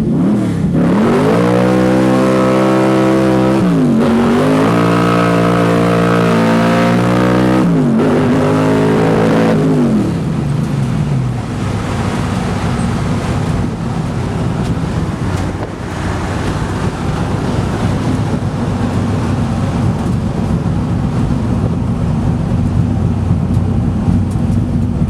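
Carbureted 427-cubic-inch small-block Chevy V8 in a 1969 Camaro, breathing through a stock dual-plane intake and a vacuum-secondary carburetor, accelerating hard. The revs climb, drop at a gear change about four seconds in, climb again, then fall away as the throttle closes around eight to ten seconds in. After that the engine runs steadily at lower revs.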